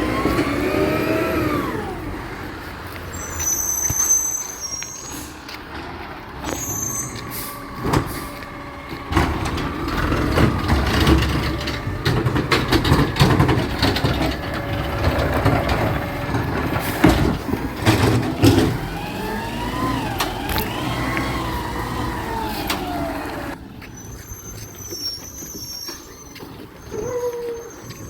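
Garbage truck at work: air brakes, repeated clanks and knocks, and rising-and-falling whines.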